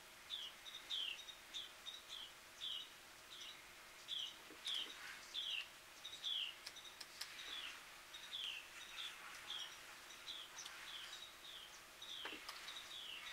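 A bird calling over and over: a steady series of short whistled notes, each sliding down in pitch, about two to three a second.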